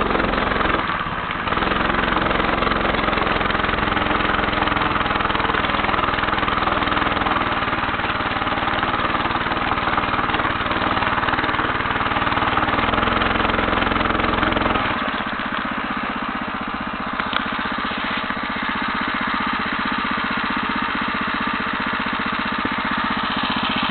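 Homemade motorcycle's engine running as it is ridden. About fifteen seconds in, the low engine note drops away and the sound quietens a little, as the rider eases off the throttle.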